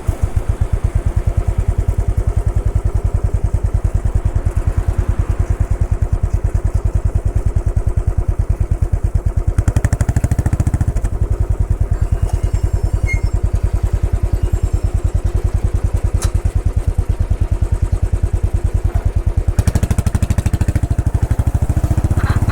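Royal Enfield Bullet 500's single-cylinder engine running steadily under way, a rapid, even beat of firing pulses from the motorcycle.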